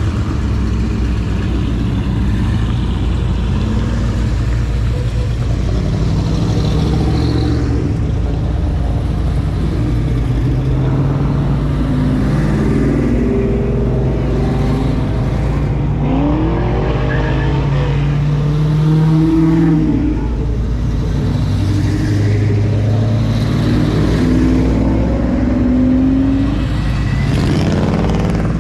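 Car engines running, with several revs that rise and fall in pitch.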